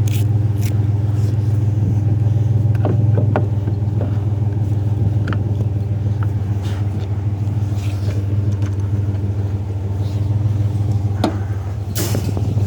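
Truck engine running steadily at idle, a constant low drone, with scattered short clicks and knocks over it, the loudest near the end.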